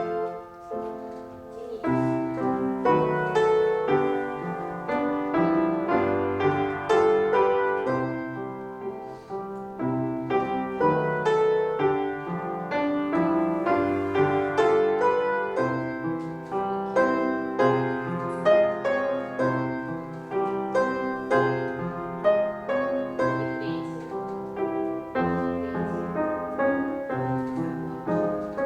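Piano playing a steady, flowing accompaniment for a ballet class exercise, with notes and chords struck in an even rhythm.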